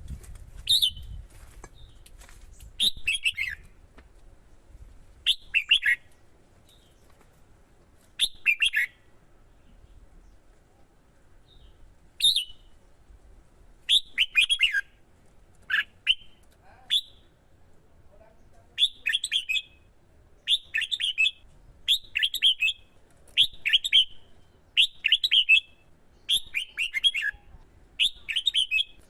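Red-whiskered bulbul in competitive song: short phrases of quick falling notes, repeated every second or two and coming closer together in the second half.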